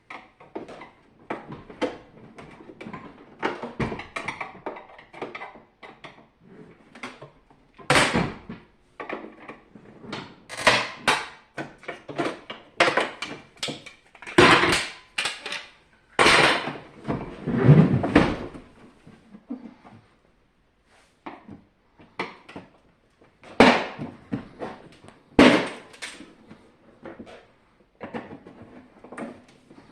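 Irregular clicking, knocking and clattering as the plastic casing and parts of a SilverCrest SLE 450 A1 dehumidifier are handled and taken apart, with a few louder knocks spread throughout.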